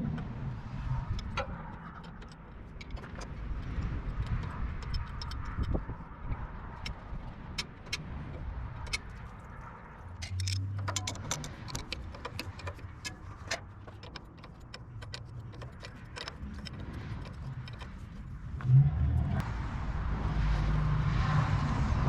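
Scattered sharp metallic clicks and clinks of hand tools on metal parts over a steady low rumble, with a thump about three-quarters of the way through, after which the low hum grows louder.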